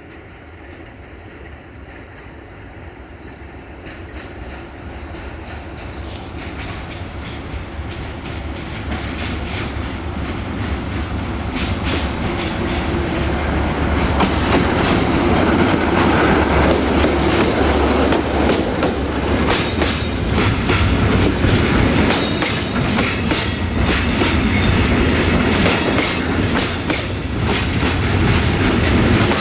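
Electroputere class 60 (060-DA) diesel-electric locomotive with its Sulzer diesel engine approaching, its low engine drone growing steadily louder. About halfway through, the freight wagons start passing close by, wheels clattering over the rail joints with many sharp clicks over a loud rumble.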